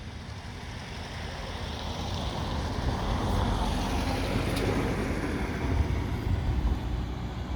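Highway traffic: tyre and engine noise of passing vehicles with a low rumble, swelling up over the first few seconds and then easing a little.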